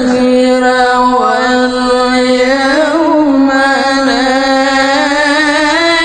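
Melodic Quran recitation by a male qari: one long, ornamented held vowel whose pitch wavers slowly, then climbs near the end.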